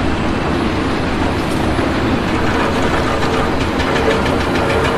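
Heavy machinery running: a loud, steady mechanical rumble, with a faint, rapid, regular clatter through the second half.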